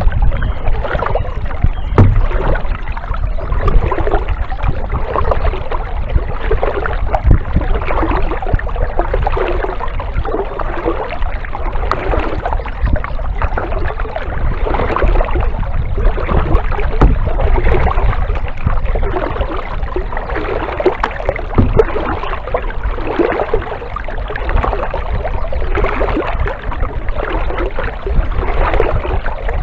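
Kayak paddle strokes dipping and splashing in the water, alternating sides in a steady rhythm of about one stroke every second and a half, over a steady low rumble.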